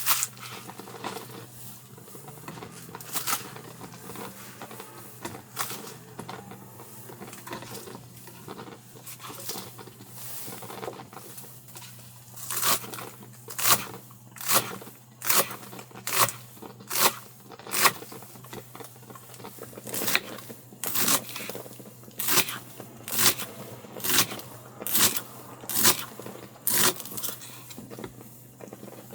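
A run of short scraping, crunching strokes, a little more than one a second, starting about twelve seconds in and stopping near the end, with a few scattered strokes before it, over a steady low hum.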